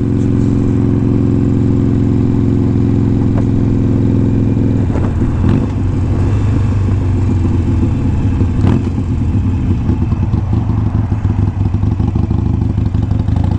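Harley-Davidson Iron 883 Sportster's V-twin engine running under way, steady at first. About five seconds in its note turns choppy and uneven as the throttle comes off and on, with a couple of sharp knocks, and the pitch rises near the end as it accelerates.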